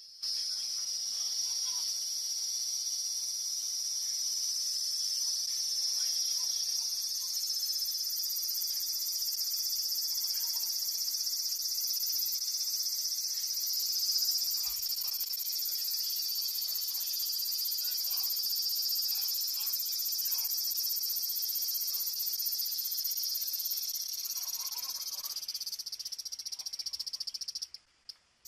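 A cicada buzzing: one continuous high, hissing drone that holds steady for nearly half a minute and then cuts off abruptly.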